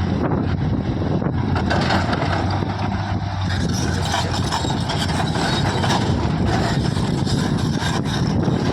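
Diesel engine of a JCB 3DX backhoe loader running steadily at work, with irregular clattering added from about two seconds in.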